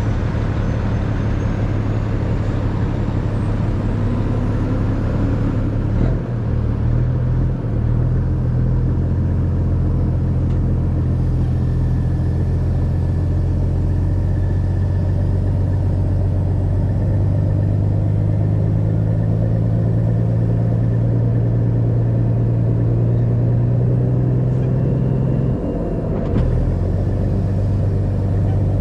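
Heavy tow truck's diesel engine running as it drives slowly, a steady low drone that shifts in pitch a few times along the way.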